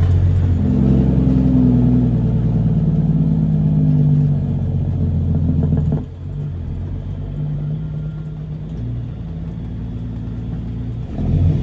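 Caterpillar C13 diesel of a Kenworth W900B dump truck pulling away and running under load. About six seconds in, the engine note drops suddenly to a quieter, lower pitch, then it picks up again near the end.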